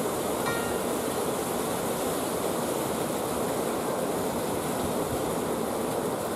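Steady rushing of flowing water, like a stream or small falls, an even unbroken sound. A brief faint high tone shows about half a second in.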